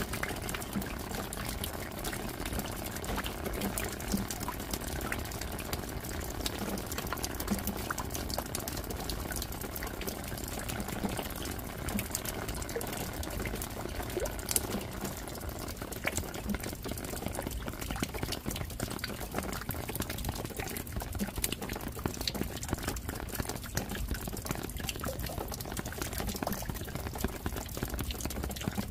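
Steady rain falling, with the dense patter of many separate drops striking close by.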